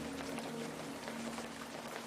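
Steady rain falling, a hiss of patter with small drop ticks, while the low sustained notes of the slowed music fade out underneath.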